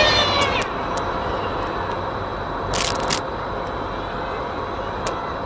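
A 3D-printed long-range FPV drone's propellers whining as it flies past, the pitch falling just at the start, then a steady rushing noise. A short loud burst comes about three seconds in, and a few sharp clicks near the end.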